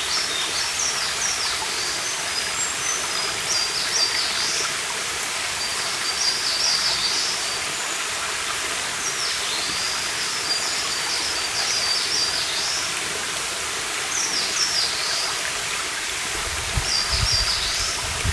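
A stream running steadily, with small birds singing short repeated phrases every couple of seconds over it, and a brief low rumble near the end.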